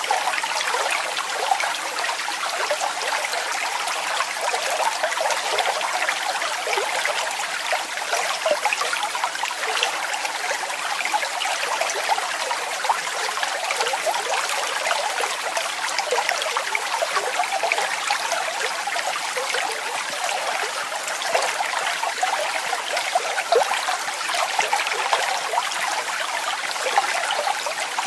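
Running water: a steady, splashing rush of falling water with fine bubbling detail and no deep rumble.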